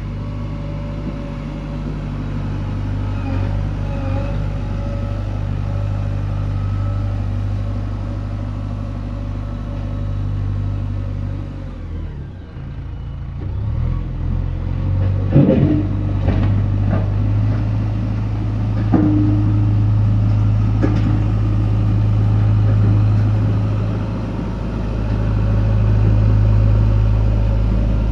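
Diesel engine of a JCB 3DX backhoe loader running steadily. The engine note drops off briefly about halfway, then picks up again with a few sharp knocks.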